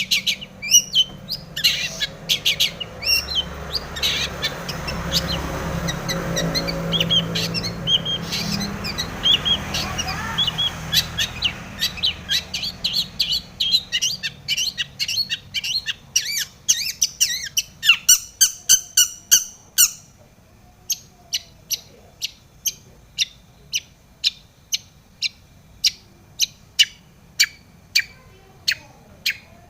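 Long-tailed shrike singing a fast, varied, chattering song full of mimicked phrases, over a low hum. About two-thirds of the way through, the hum drops away and the bird switches to a steady series of short harsh calls, about two a second.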